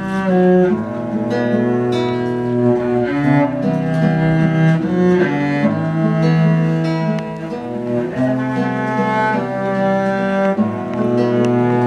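Instrumental break in a live acoustic song: bowed strings play long sustained melody notes over plucked acoustic guitar, with no voice.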